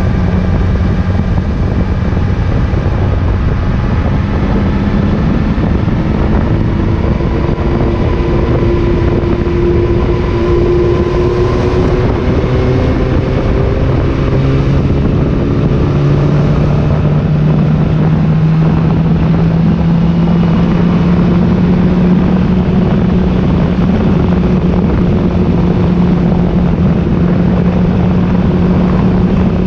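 Motorcycle engine running while riding, its pitch climbing gradually through the middle of the stretch as it speeds up, over a steady rush of wind and road noise.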